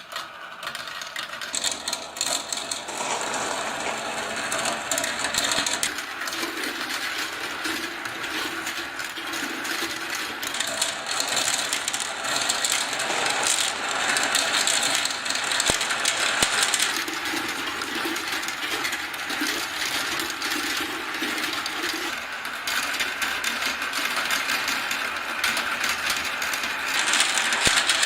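Many small balls rolling and clattering down a plastic marble-run track, a dense continuous rattle of clicks, growing louder near the end.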